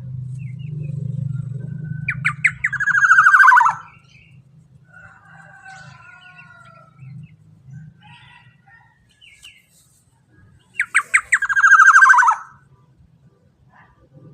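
Black-naped oriole (kepodang emas) giving two loud, harsh calls about eight seconds apart, each opened by a few short sharp notes and then sliding down in pitch. Fainter chirps from other birds come between them, over a low hum that fades after about four seconds.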